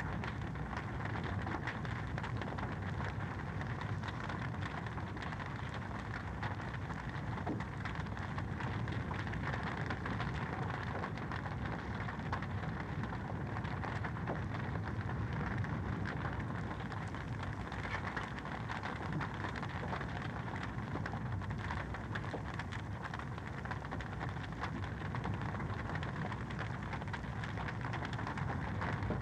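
Wood fire in a fireplace crackling steadily: dense small crackles and pops over a low, even rumble of the flames.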